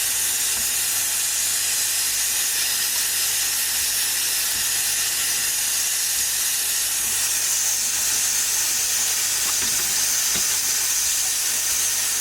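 Steady hissing sizzle of cooking on the stove: hot oil heating in a frying pan, with steam.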